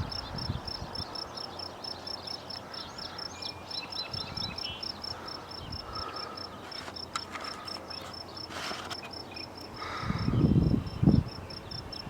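Cricket chirping in a steady, even rhythm of high pulses, about five a second, with a few short bird chirps a few seconds in. A louder low rumble comes in near the end.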